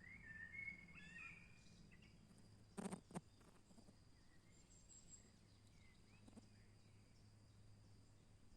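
Faint forest ambience: a songbird sings a short warbling phrase in the first second and a half, over a thin steady high tone. Two sharp knocks come close together about three seconds in, and a faint high chirp follows a couple of seconds later.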